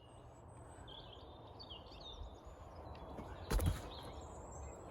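Birds chirping and singing in short phrases, with a low steady outdoor rumble. About three and a half seconds in comes a single dull thump, the loudest sound.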